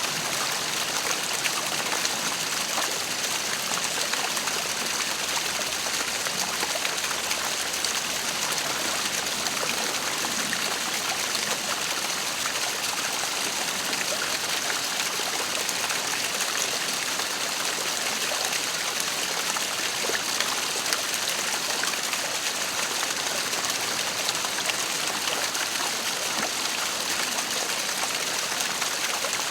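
Waterfall, its water splashing and rushing in a steady, even hiss with no change throughout.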